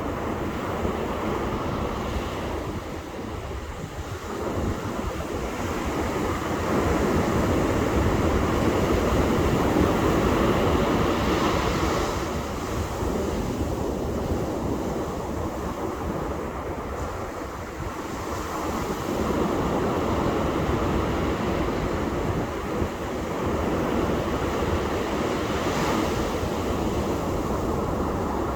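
Ocean surf breaking and washing on a beach, rising and falling in long surges that last several seconds each.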